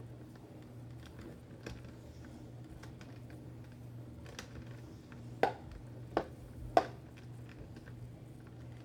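Scattered light clicks and taps, with three sharper knocks a little past halfway, over a faint steady low hum.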